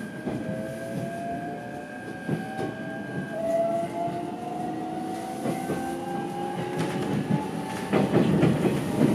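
Electric train pulling away from a station, heard from inside the carriage: its motors whine, rising steadily in pitch as it gathers speed. Near the end the wheels clatter over rail joints.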